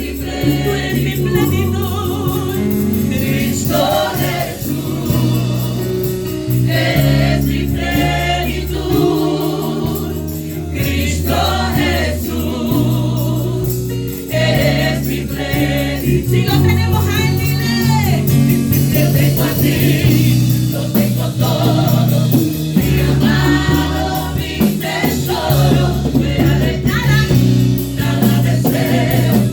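Gospel praise-and-worship music: voices singing over sustained chords and bass.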